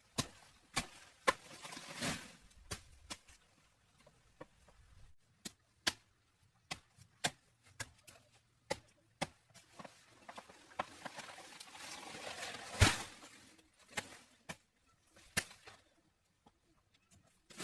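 A series of sharp knocks at irregular intervals, roughly one every half second to a second, like hand work with a tool. Stretches of rustling or scraping run between them, once early on and again for a few seconds past the middle, ending in the loudest knock.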